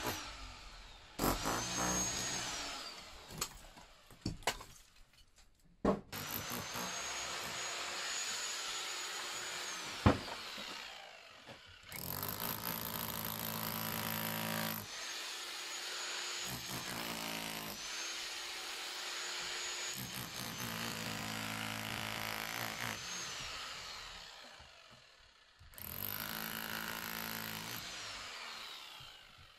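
Electric power saw cutting wood in several runs of a few seconds each, its motor whine rising at each start and falling away at each stop. A single sharp knock comes about ten seconds in.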